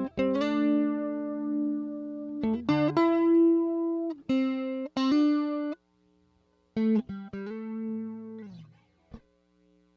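Electric guitar played through a JHS 3 Series Flanger pedal: picked notes and held chords in short phrases. The playing stops briefly about six seconds in, then dies away near the end.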